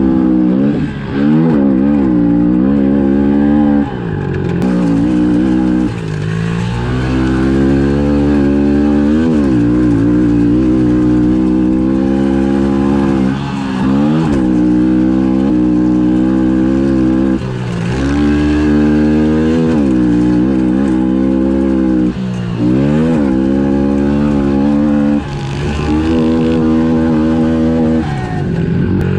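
Honda CRF110F pit bike's single-cylinder four-stroke engine at race pace, revving up and then falling away as the throttle is shut and reopened, about eight times.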